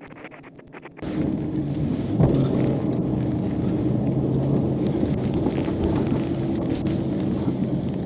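Wind rumbling on the microphone over a steady engine hum. It starts abruptly about a second in, after a quiet stretch with faint clicks.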